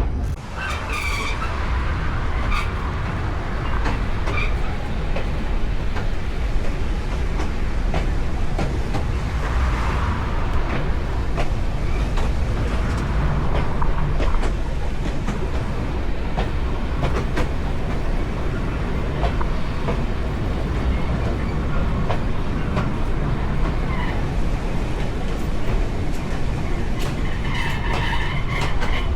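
Train running along the rails: a steady low rumble from the wheels with scattered clicks from the track joints, and a faint higher squeal a few times.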